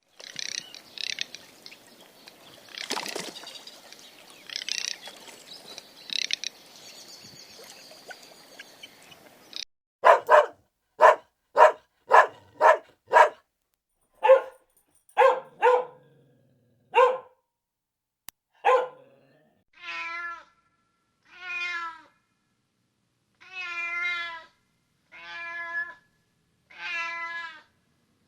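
A few seconds of high-pitched squeaks and chirps, then a dog barking about ten times in a steady run, then a cat meowing six times, each meow long with a wavering pitch.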